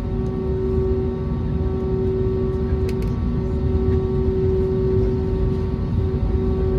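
Airbus A320neo engines running at taxi power, heard from inside the passenger cabin: a steady hum with several held tones over a low rumble.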